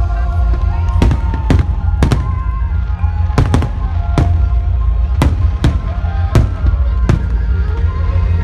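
Fireworks going off in quick succession, a dozen or so sharp bangs spread irregularly, with music playing underneath and a heavy low rumble.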